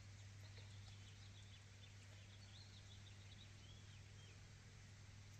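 Near silence, with faint, scattered bird chirps over a steady low hum.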